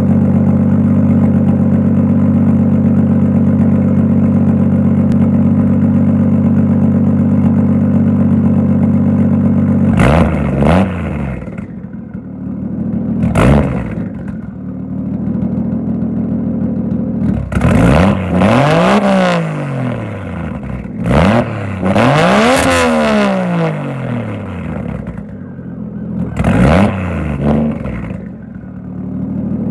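Turbocharged 1JZ-GTE VVT-i straight-six on a 3-inch straight-pipe exhaust with the J-pipe deleted. It idles steadily for about ten seconds, then is revved in a series of throttle blips, two of them longer, each rising in pitch and falling back to idle.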